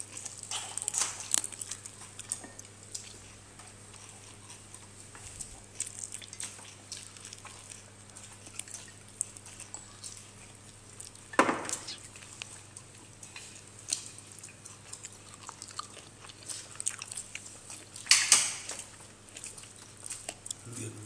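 A young dog chewing and biting pieces of chicken: irregular wet clicks and crunches, with a louder crunch about halfway through and another near the end.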